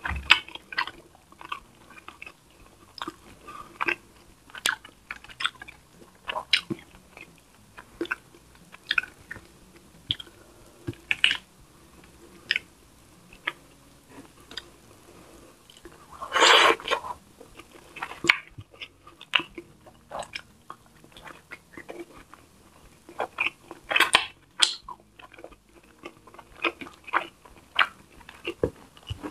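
Close-miked mukbang eating sounds: a person chewing tilapia stewed in coconut milk, with rice, with many short wet clicks and smacks of the mouth at an uneven pace. Just past halfway there is one louder noise that lasts about a second.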